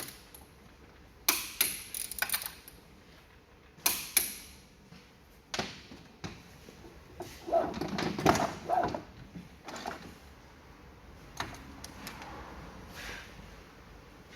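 Sharp metallic clicks and knocks from tools and differential parts being handled during a backlash check, in ones and short clusters, with a longer rattling, scraping stretch around the middle.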